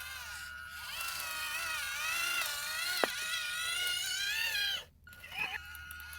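Electric gear motors of RC construction models whining, the pitch rising and falling as they are driven, with a sharp click about three seconds in and a brief break near the end.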